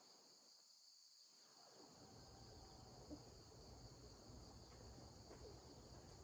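Near silence with faint, steady chirring of crickets, and a faint low rumble coming in about two seconds in.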